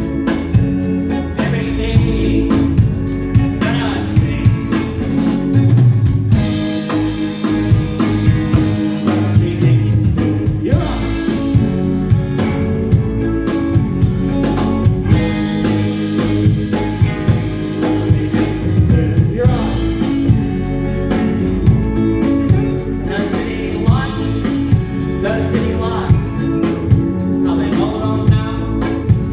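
Live band performing a song: electric guitar, drum kit with a steady beat and a lead singer, loud and full throughout.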